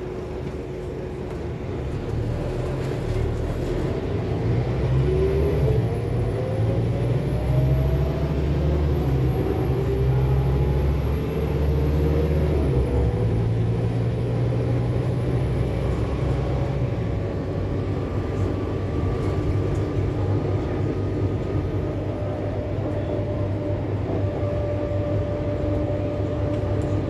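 Scania K280UB4 city bus heard from inside, its diesel engine pulling with a heavy rumble as a whine rises in pitch, then easing off after about sixteen seconds into a steadier run.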